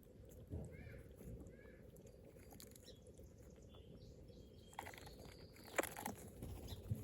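Faint chirps of small birds, with scattered light taps and clicks and a sharper click about six seconds in, over a low steady background noise.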